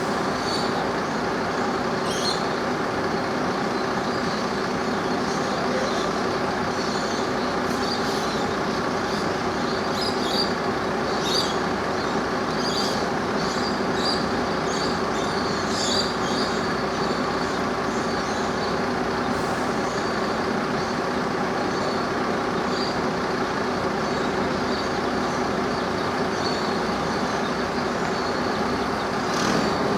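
A machine running steadily with a constant low hum and even noise. Short high chirps or clicks come and go through the first half.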